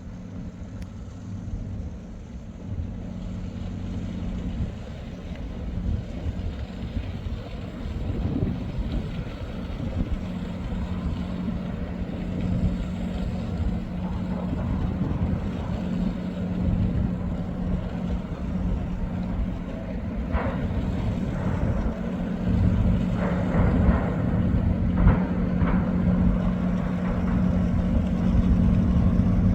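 Rumble of riding a bicycle along a road, with wind on the microphone, a steady low hum and a few rattling knocks from about twenty seconds in; the noise grows slowly louder.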